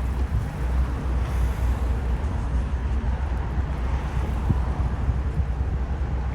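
Wind buffeting the microphone: a steady low rumble with a hiss over it, typical of recording out on open water.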